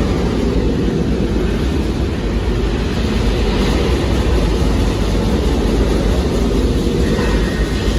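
Recorded Saturn V rocket launch sound from the Apollo 8 liftoff, played back through loudspeakers: a loud, steady, deep rumble with rushing noise over it.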